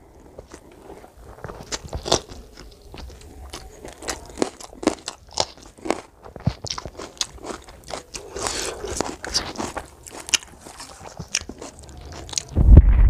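Close-miked eating: crunching and chewing of rice, mutton curry and raw carrot, with many short wet clicks and smacks of the mouth at an irregular pace. A louder low muffled rumble comes near the end.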